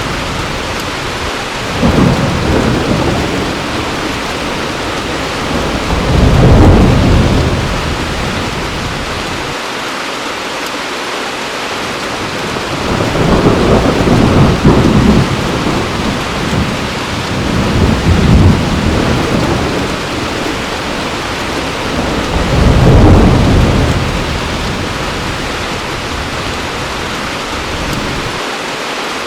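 Heavy rain falling steadily, with thunder rolling in about five times: low rumbles that swell and fade over a second or two each.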